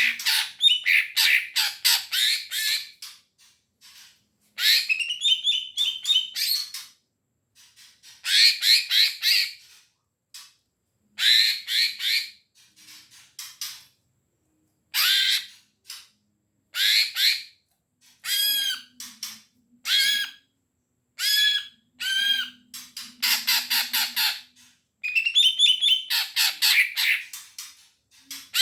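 Cucak ijo (greater green leafbird) in full, persistent song: bursts of rapid, harsh chattering phrases broken by short pauses, with a run of repeated clear, slurred whistled notes in the middle.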